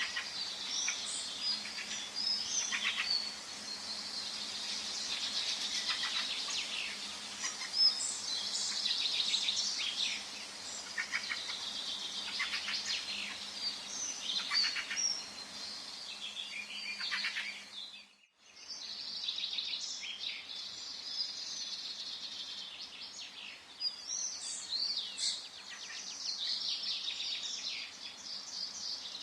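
Forest birdsong: several birds chirping and trilling in quick, overlapping phrases over a faint steady hiss. About two-thirds of the way through, the sound drops out for a split second, then the birds carry on.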